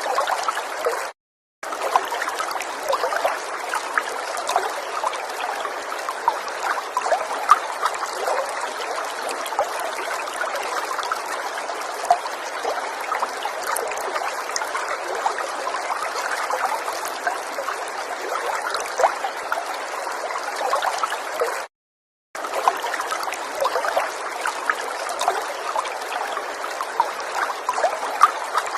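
River water running steadily with a trickling sound. It cuts out completely for a moment twice, about a second in and again about twenty-two seconds in.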